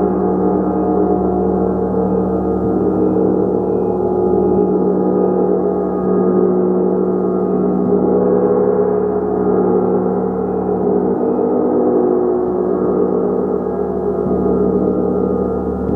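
Large gong played continuously, a dense sustained wash of many overlapping ringing tones that swells and eases gently without distinct separate strikes.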